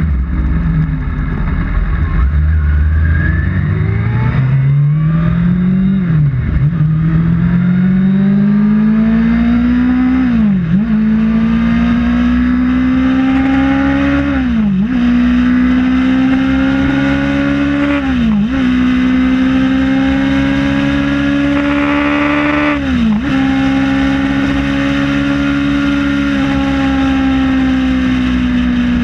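Kawasaki ZX-6R inline-four sport-bike engine accelerating hard through the gears: the note climbs, then drops sharply and briefly at each of five upshifts a few seconds apart, before holding a steady high pitch.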